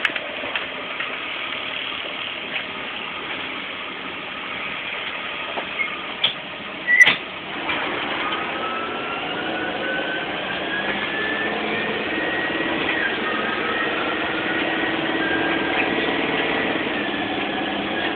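A vehicle engine running under a steady hiss. There is a sharp click about seven seconds in, and after it the engine's tone gets louder and slowly rises in pitch.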